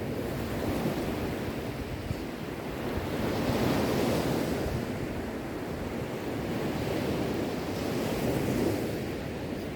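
Sea waves surging and washing in, a steady rush of water that swells and eases every few seconds.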